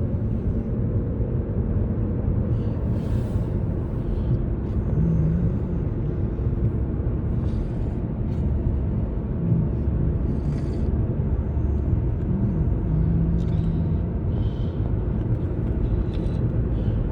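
A car driving at steady road speed on a highway: a constant low rumble of road and engine noise.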